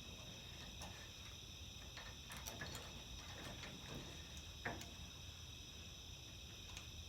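Faint steady high-pitched insect chorus, with scattered light clicks and one louder click about five seconds in.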